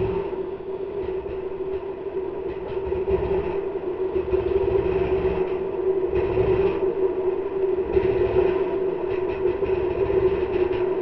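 Enduro dirt bike engine running at a steady pitch while riding, with water splashing up from the wheels through flooded stretches of trail and uneven low rumbling underneath.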